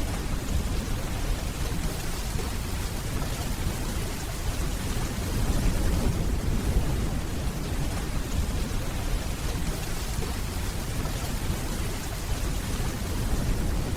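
Steady rainfall hissing on hard surfaces, with a low, distant thunder rumble underneath that swells slightly midway.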